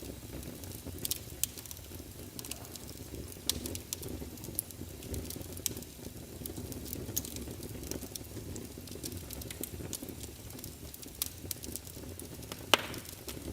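Wood fire crackling in a fireplace: a steady low rumble with irregular small pops and snaps, and one louder pop near the end.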